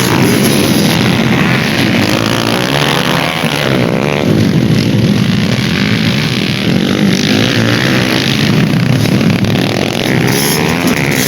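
Dirt-bike engines revving hard on a race track, the pitch rising and falling again and again with throttle and gear changes.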